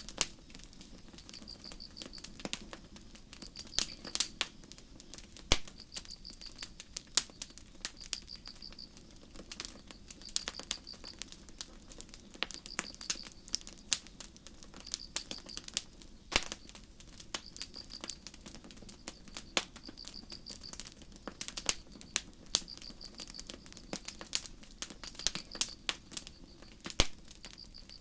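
Wood campfire crackling and popping, with irregular sharp snaps, a few of them louder. Behind it crickets chirp in short pulsed bursts, a high chirp repeating about every second and a half.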